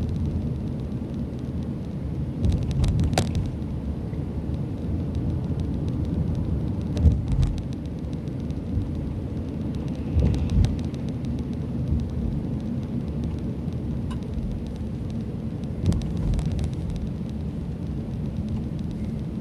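Road noise inside a moving car: a steady low rumble of tyres and engine, with short rattling knocks about four times.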